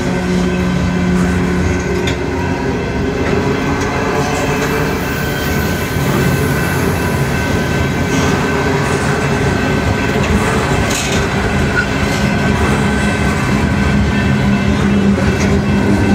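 Freight cars loaded with steel coils rolling past close by, steel wheels rumbling and clacking over the rail joints. A thin steady whine runs for several seconds in the middle.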